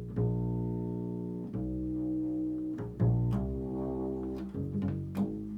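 Slow improvised music: a low-pitched instrument holds long notes, moving to a new note about every second and a half.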